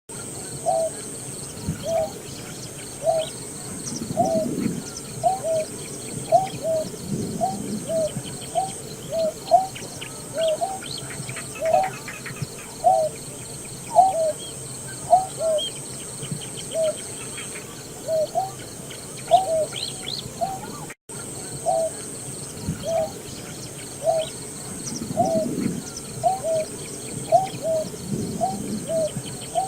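Greater painted-snipe calling: a long series of short, low hooting notes, each with a slight upward hook, about three every two seconds.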